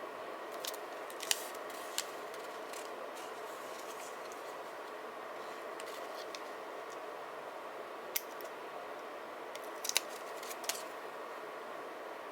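Scissors cutting paper: a few short, sharp snips spread apart, a pair in the first two seconds and a cluster from about eight to eleven seconds in, over a steady background hiss.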